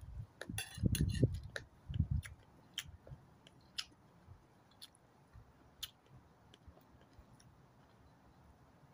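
A person chewing a mouthful of noodle salad close to the microphone, with wet mouth smacks and clicks. The chewing is heaviest for about the first two seconds, then thins to scattered smacks and clicks and dies away.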